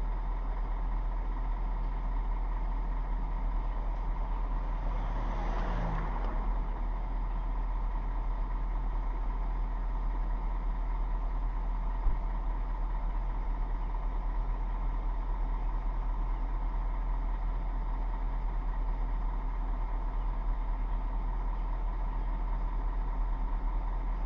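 Vehicle engine idling with a steady low rumble. Another vehicle passes about five seconds in, and there is a single sharp knock around twelve seconds in.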